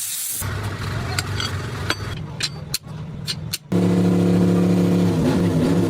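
Workshop noise: a few sharp metallic clicks over a low hum, then a loud, steady motor drone starts suddenly about four seconds in and wavers slightly in pitch near the end.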